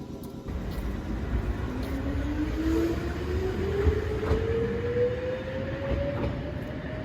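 Nankai 2200-series electric train pulling away and gathering speed. It rumbles louder about half a second in, and a whine rises steadily in pitch as it accelerates, with faint rail clicks.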